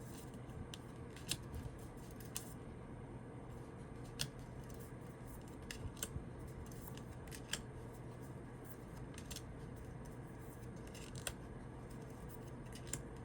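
Tarot cards being handled and looked through one at a time: faint, irregular light clicks and snaps of card stock, over a steady low hum.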